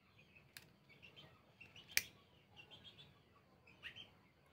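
Faint bird chirps in the background, with two sharp clicks about a second and a half apart.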